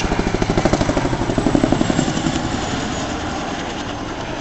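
Boeing CH-47 Chinook tandem-rotor helicopter in flight, its rotor blades beating in a rapid, even pulse. After about two and a half seconds the beat eases into a smoother, slightly quieter rumble.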